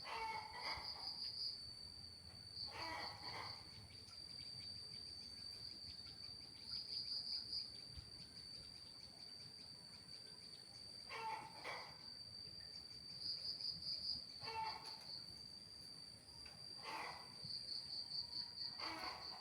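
Insects trilling, cricket-like: a steady high-pitched trill that swells now and then into louder pulsing stretches. Six short, lower calls of another animal break in at intervals of a few seconds.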